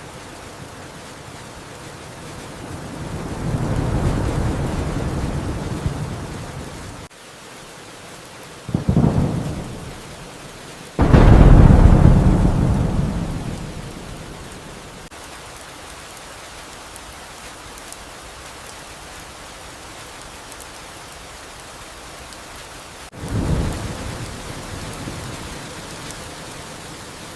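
Steady rain hiss with rolls of thunder. A rumble swells and fades a few seconds in, and a short crack comes near the middle. The loudest clap follows and rumbles away over a few seconds, and a shorter roll comes near the end.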